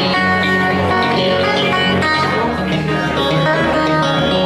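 Guitar playing a blues tune live: plucked notes over a low bass line, with no singing.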